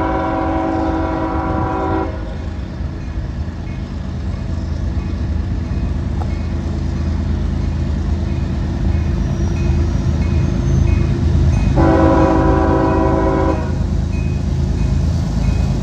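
Diesel freight locomotive air horn sounding two blasts of a multi-note chord, the first trailing off about two seconds in and the second about twelve seconds in, over the steady low rumble of the locomotive's engine and train, which grows louder toward the end. A faint high ding repeats evenly throughout.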